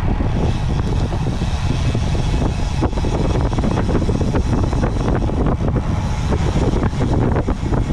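Steady wind buffeting on the microphone of a camera carried on a moving road bike, with rumble and rattle from the road.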